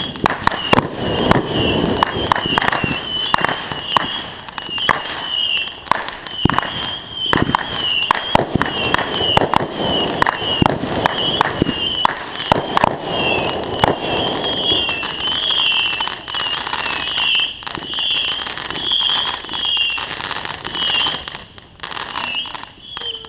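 Consumer fireworks going off: a dense, irregular run of sharp bangs and crackling, with a high warbling sound running along underneath.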